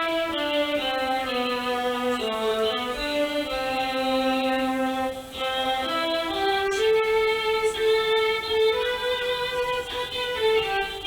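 Yamaha Electone electronic organ playing a gentle pop tune: a held, gliding melody line over sustained chords.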